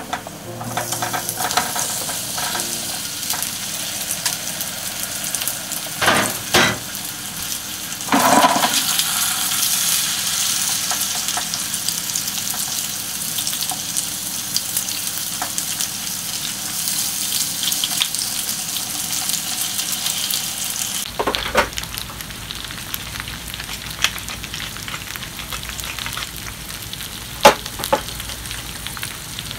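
Sliced new potatoes sliding into hot olive oil and garlic in a frying pan, with a few knocks as they land several seconds in and the sizzle getting louder. They then fry with a steady sizzle while chopsticks turn them, with occasional light clicks against the pan.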